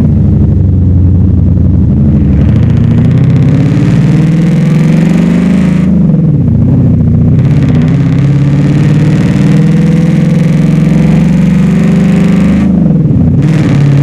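V8 engine running loudly, the revs rising and falling, with the pitch dipping sharply about six seconds in and again near the end.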